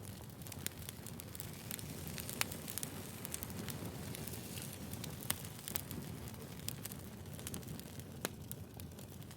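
Wood fire burning: a steady low rush with irregular sharp crackles and pops of burning firewood scattered through it.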